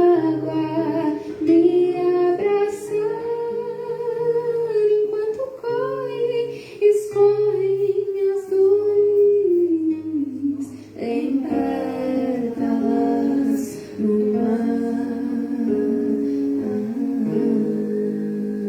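A voice singing a slow song with long held notes, accompanied by guitar.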